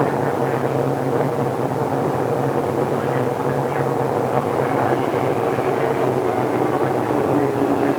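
Tokyu 2000 series electric train running at speed, recorded on cassette tape: a steady motor hum with level tones over wheel and rail noise.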